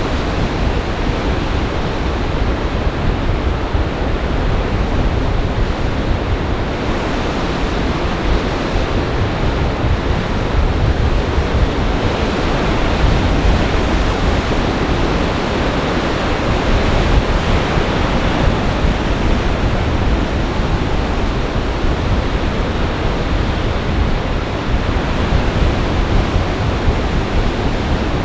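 Storm surf on a lake, churning steadily in gale-force wind, with wind rumbling on the microphone.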